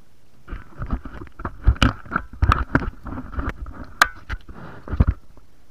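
A run of irregular knocks, scrapes and sloshing, as of things being handled in water, starting about half a second in and stopping shortly before the end, with the sharpest knocks near the middle.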